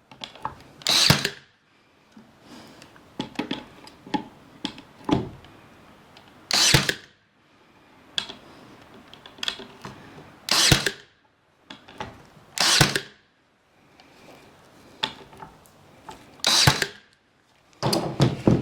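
Power drill driving screws into wood in short bursts, about six in all, a few seconds apart, as the lid is fastened onto a wooden birdhouse. Light clicks and handling knocks come between the bursts.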